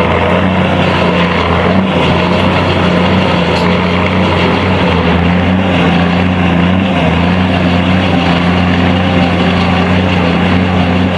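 Heavy machinery running: a steady, loud, low engine or motor drone with dense mechanical noise over it.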